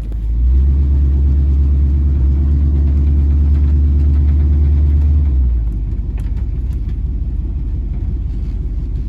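1985 Chevy K20 pickup's engine running with a loud, steady low drone. The drone drops to a lower rumble about five seconds in.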